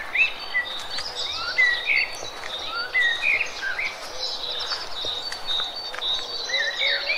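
Several birds chirping, with quick rising and falling whistled notes overlapping one another over a steady background hiss.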